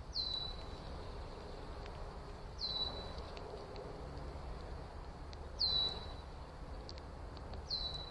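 A bird calling four times, a couple of seconds apart. Each call is a high whistle that drops quickly and then holds a level note for about half a second.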